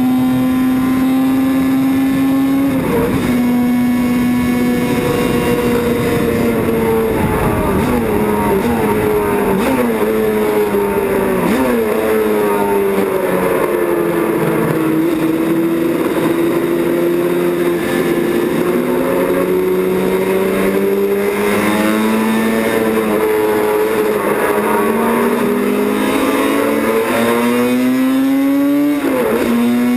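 Several racing motorcycle engines running together at high revs. Their pitches climb and fall as they accelerate, shift and pass, with a few sharp drops in pitch as a bike goes by.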